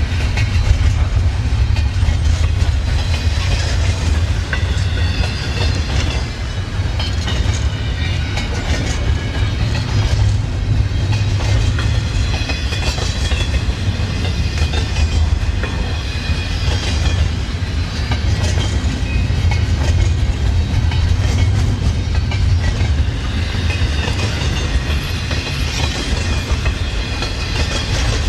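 Freight train cars rolling past with a steady low rumble, and faint high wheel squeal that comes and goes, strongest near the start and near the end.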